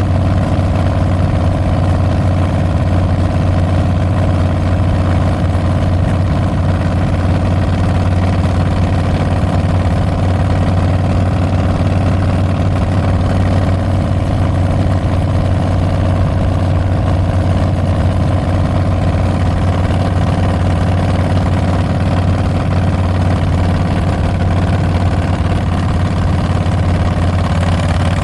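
Harley-Davidson Street Bob's Milwaukee-Eight 114 V-twin running steadily through Tabs Performance slip-on mufflers with Zombie Baffles, a deep, even exhaust note with no revs.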